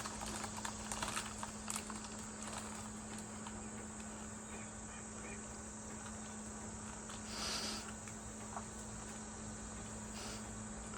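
Mostly quiet room tone under a steady low electrical hum, with faint clicks and rustles in the first couple of seconds and a short breathy hiss about seven and a half seconds in.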